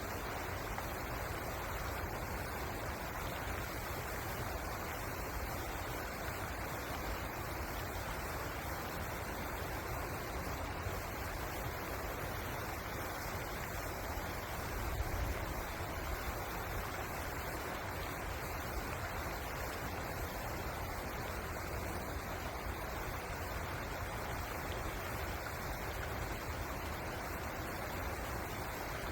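River water flowing, a steady even rush with no pauses.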